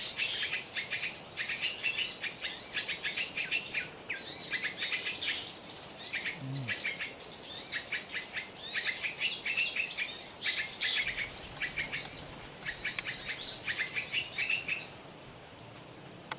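Dense, rapid chirping and twittering of many small birds, breaking off abruptly near the end, with a faint steady insect drone underneath.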